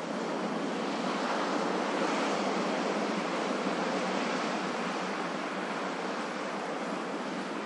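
Ocean waves washing in: a steady hiss of surf that swells about a second in and slowly eases off.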